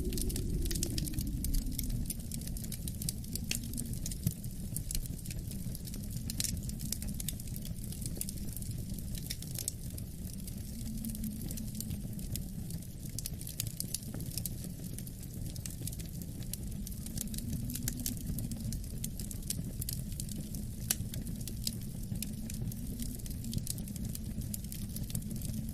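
Wood fire crackling with irregular sharp pops and snaps, over a low, steady wind rumble that swells and eases slowly in gusts.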